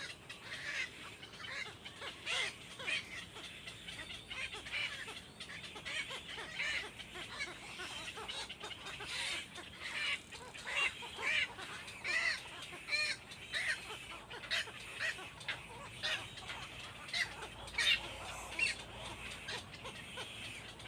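Young birds chirping: a steady run of short, high-pitched chirps, several a second.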